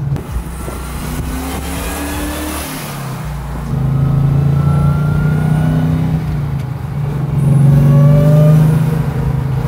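Supercharged Hellcat HEMI V8 in a 1969 Plymouth Road Runner driving and accelerating. The engine eases off briefly about three seconds in, then pulls louder, with the supercharger's thin whine rising above the engine note; it is loudest near the end.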